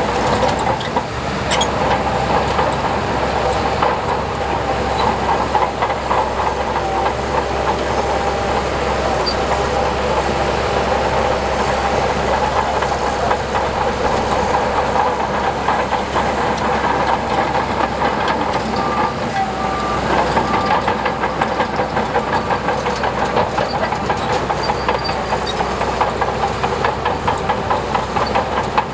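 Heavy diesel earthmoving machinery running steadily under load, with a continuous fast metallic clatter like steel crawler tracks.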